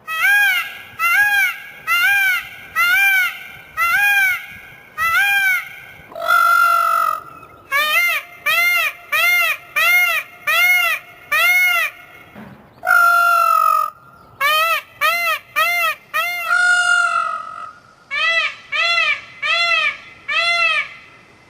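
A single large bird giving a series of loud honking calls, short arched notes about one a second, with a few longer, drawn-out calls between them.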